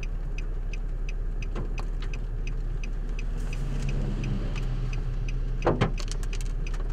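Hailstones striking a vehicle: scattered, irregular sharp clicks over a steady low hum, with two louder hits close together near the end.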